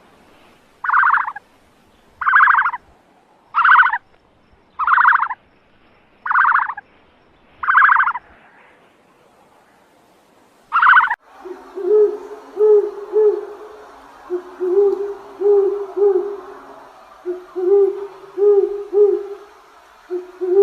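Animal calls: seven short, evenly spaced higher-pitched calls, then, from about eleven seconds in, low hooting notes in quick runs of three or four.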